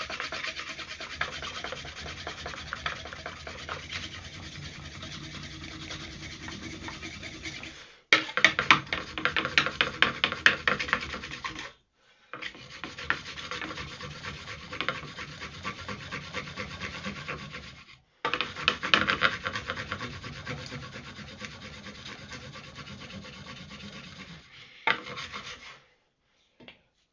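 Two smooth wooden boards rubbed rapidly back and forth over a cotton-and-ash roll, a continuous fast rasping friction. It comes in long bouts with short breaks about 8, 12 and 18 seconds in, and stops shortly before the end. The friction is heating the cotton until an ember forms inside it.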